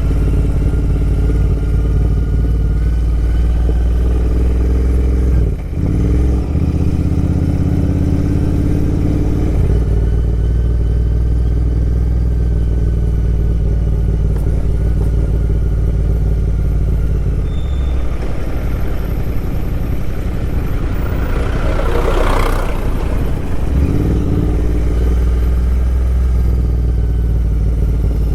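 Motorcycle engine running steadily under way, its note dipping and changing briefly about 6 s and 24 s in. A short rushing noise comes through about 22 s in.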